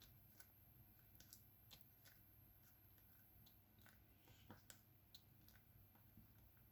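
Faint, irregular clicking, about two clicks a second: a diamond painting pen tapping resin drills onto the adhesive canvas.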